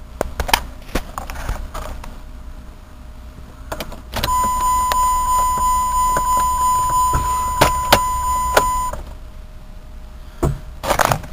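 A steady electronic beep tone held for about five seconds, starting about four seconds in and cutting off sharply, with scattered clicks and knocks of handling around it.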